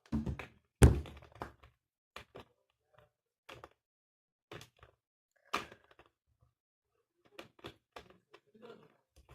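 A heavy thump about a second in, then scattered light knocks and clicks of handling.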